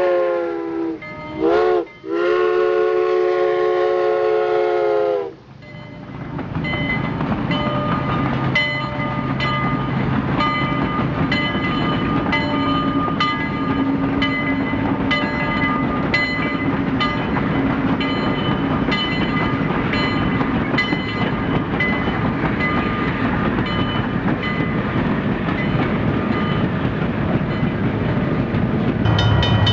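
A model train's multi-note whistle sounds for about five seconds, dipping in pitch once briefly. Then the train runs along its track with a steady stream of wheel clicks over the rail joints and a low motor hum.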